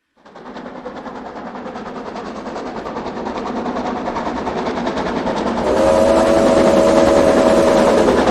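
Battery-powered Rail King toy train running on its track: a fast, even mechanical rattle of the small motor and wheels that grows steadily louder. About two-thirds through, a steady tone joins in over the rattle.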